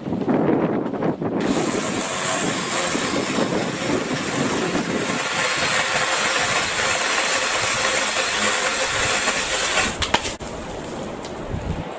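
BLACK+DECKER 18V cordless saw running and cutting through a tree branch. It starts suddenly about a second and a half in, runs steadily with a hissing edge, and cuts off about ten seconds in. Wind on the microphone is heard around it.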